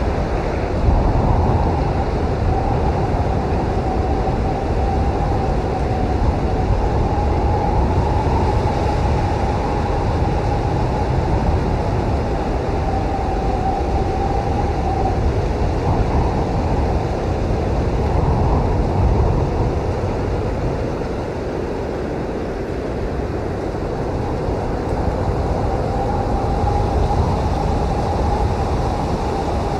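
Blizzard wind blowing hard and steadily, with a deep rumble and a whistling tone that comes and goes.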